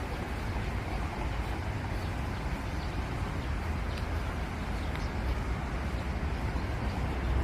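Steady outdoor background noise dominated by a low rumble, with no distinct events.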